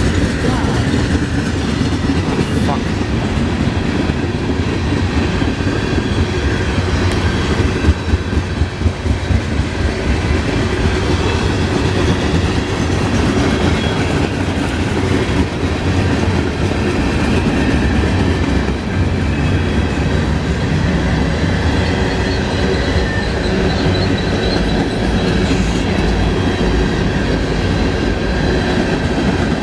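Train rolling past, a steady loud rumble of railroad cars on the track.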